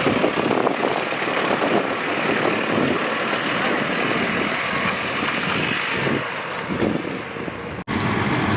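Steady vehicle engine and traffic noise. Near the end it cuts off abruptly and a different, lower steady rumble takes over.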